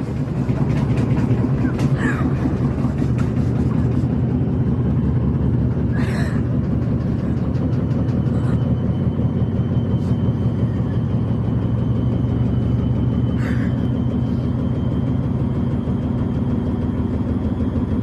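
Arctic washing machine running with a loud, steady rumble and continuous rapid banging, with a few sharper knocks now and then.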